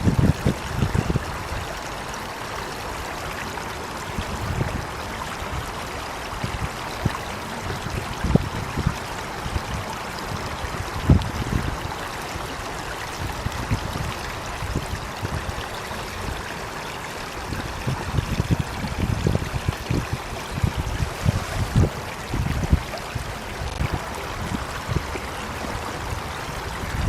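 Running water flowing steadily, like a stream, with irregular low rumbles underneath.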